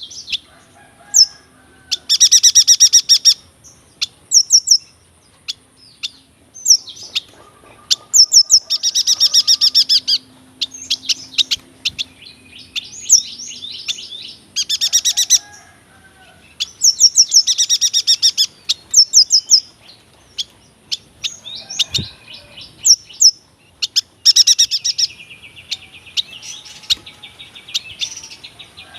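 Yuhina singing: loud bursts of rapid, rolling trills, each about a second long, repeated several times and broken up by short, high chirps.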